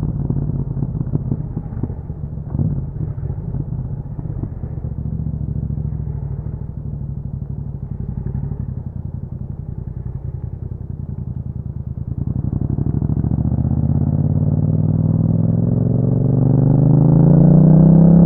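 Yamaha MT-07's parallel-twin engine through an Akrapovic exhaust, running at low revs for the first part with an uneven, crackly note, then revving up steadily through the gear as the bike accelerates during the last third.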